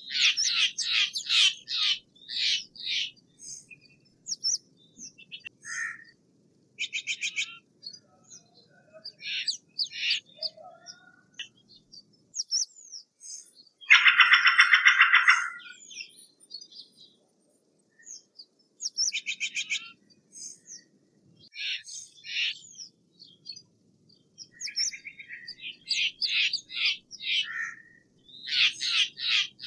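Steller's jay calling: series of short harsh calls repeated in quick succession, two rapid rattles, and one loud, harsh drawn-out call lasting about two seconds roughly halfway through.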